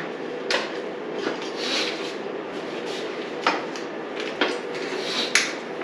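Scattered light knocks and clinks as a dirt bike's radiators are lifted off and handled, over a steady background hum.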